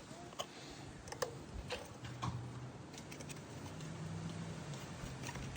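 Scattered light clicks and taps of small metal parts and tools being handled on a lawn mower's carburetor area, over a faint steady low hum.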